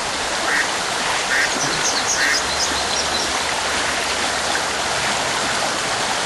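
River water running steadily over rocks, with a duck giving a short series of quacks in the first half and faint high chirps among them.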